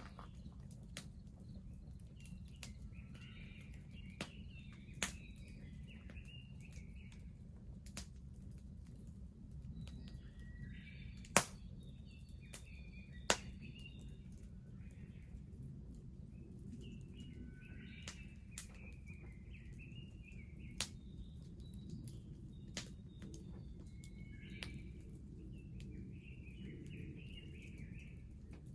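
Wood bonfire crackling, with sharp pops scattered through it, the loudest a little past eleven seconds in, over a low steady rumble. A small bird sings short warbling phrases in the background.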